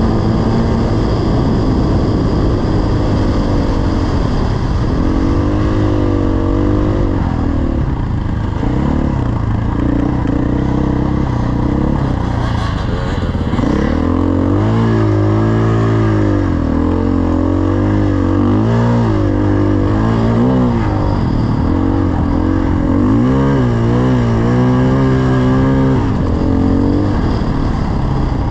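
Dirt bike engine running under load, its pitch rising and falling again and again as the throttle is opened and closed, over a steady rush of wind and road noise.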